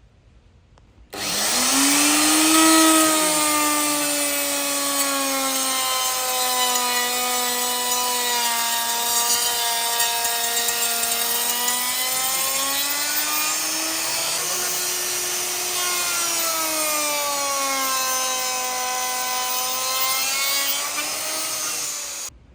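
A high-speed electric power tool cutting wood, its motor whining over a hiss. It starts about a second in and stops just before the end, the pitch dropping and recovering as the load on the cut changes.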